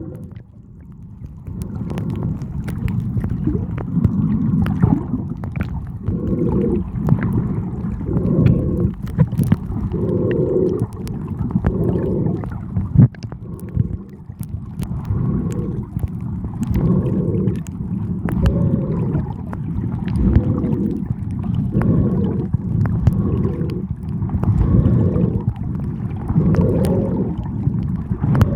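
Muffled sea water sloshing around the camera, swelling about every one and a half to two seconds.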